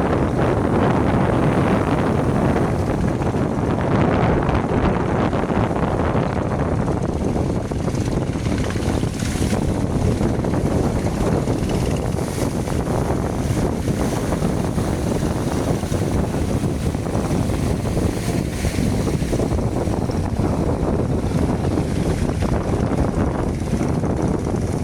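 Motor fishing boats running as they head out to sea, heard as a steady rumbling noise with wind buffeting the microphone and sea noise, a little louder in the first few seconds.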